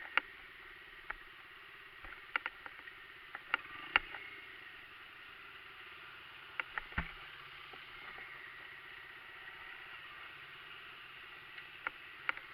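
Faint steady hum of a dirt bike's small engine running, broken by scattered sharp clicks and knocks.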